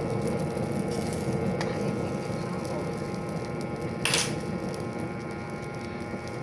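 Steady low rush of a cooking fire under flatbread, with one sharp crack about four seconds in.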